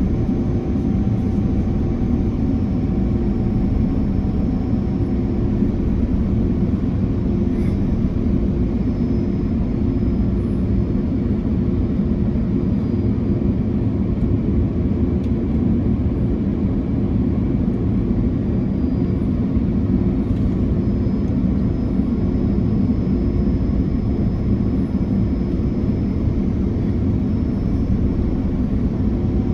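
Steady cabin noise inside an Airbus A330-300 during descent: an even rush of airflow and engine noise with a low, constant hum.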